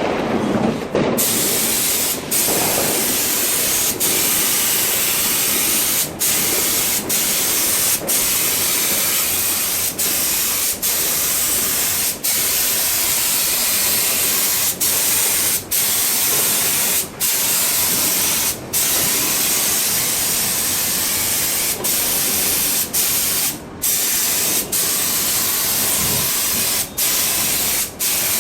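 A loud, steady hiss like spray or escaping air under pressure, broken by short gaps every second or two.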